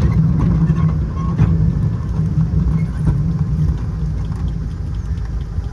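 Steady low rumble of a moving train heard from on board, with a couple of sharp clacks from the wheels and track.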